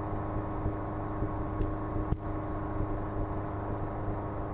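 Schweizer 300C helicopter's piston engine and rotors droning steadily in cruise flight, heard from inside the cabin, with one short sharp click about two seconds in.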